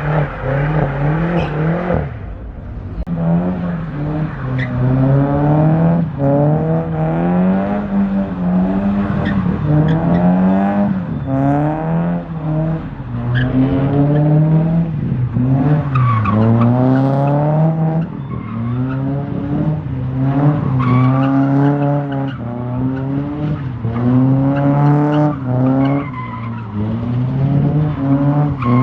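A drifting car's engine revving up and dropping over and over, about once a second, while its tyres squeal and skid.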